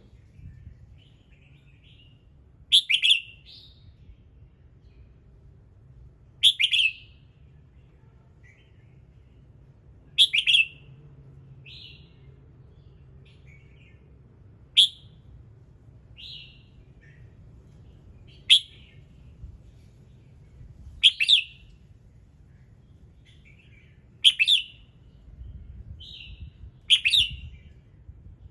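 Red-whiskered bulbul singing: short, loud, bright phrases repeated about every three to four seconds, with softer chirps in between.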